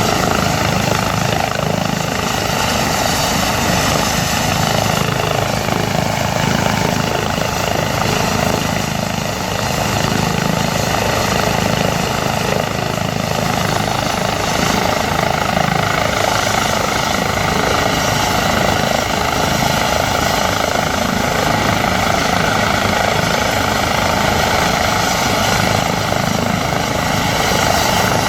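Airbus EC135 twin-turbine helicopter running steadily: the rapid beat of the rotor blades under a steady turbine whine.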